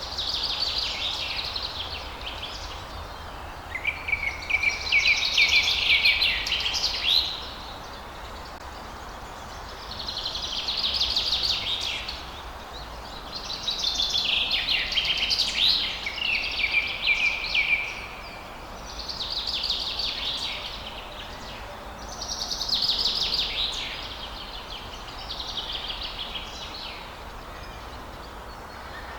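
A songbird singing a fast, high trilled phrase of a few seconds, repeated about every four seconds with short pauses between, over a steady background hiss.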